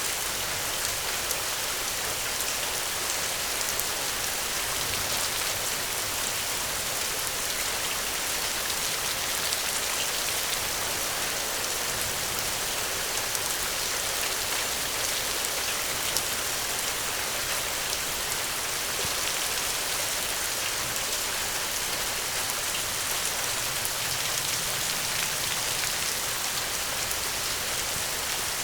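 Steady rain falling: an even hiss with fine patter of drops, holding constant throughout.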